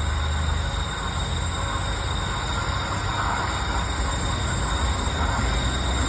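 Diesel-electric freight locomotives running with a steady low engine rumble.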